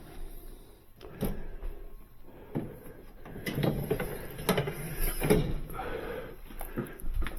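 Irregular clunks and scraping as a built-in Sub-Zero refrigerator is worked out of its cabinet opening on its floor sliders.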